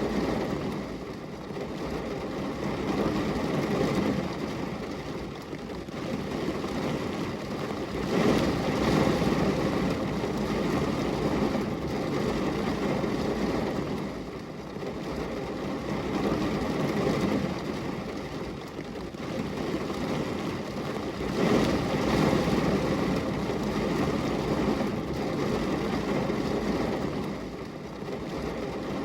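Steady rain on a glass window: a dense rushing noise that swells and eases every few seconds.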